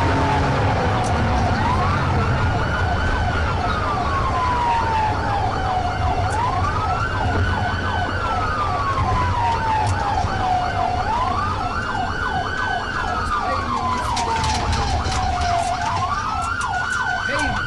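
Police car siren wailing, rising quickly and falling slowly about every four and a half seconds, over the steady rumble of the pursuing vehicle's engine and road noise.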